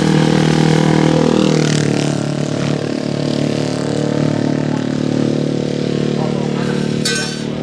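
Motorcycle fitted with an aftermarket racing exhaust, held at raised revs and then dropping back to a steady idle about two seconds in.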